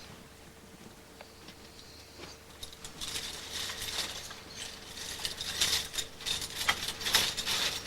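A dog crunching and gnawing a meaty bone: irregular crisp cracks and crunches begin about two and a half seconds in and grow louder toward the end.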